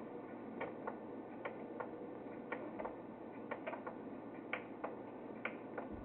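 Light, sharp clicks and taps, about a dozen at irregular intervals, over a steady low background hiss.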